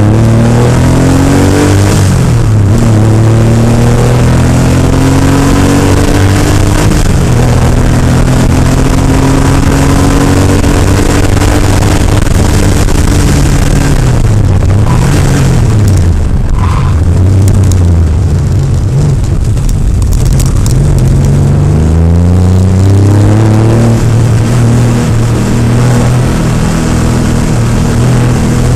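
Porsche rally car's engine heard from inside the cabin, pulling hard with its revs climbing and dropping back at each gear change. The revs dip sharply twice around the middle, then surge again about two-thirds through.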